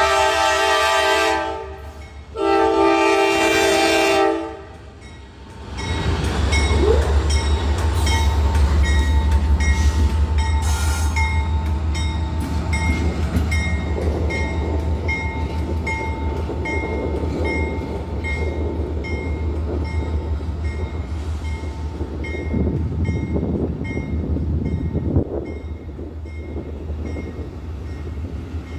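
GE AC44C6M diesel-electric locomotive passing, running light without cars. Its multi-note horn sounds twice in the first few seconds, then the loud low rumble of its diesel engine takes over, with a high ringing note repeating about once a second.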